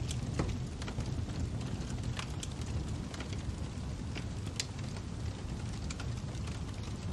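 Fire crackling: a steady low rumble with scattered sharp pops and snaps at irregular moments.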